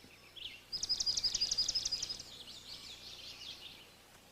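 A songbird singing. A fast trill of about a dozen high, evenly repeated notes begins just under a second in, then gives way to a softer run of twittering notes that fades away.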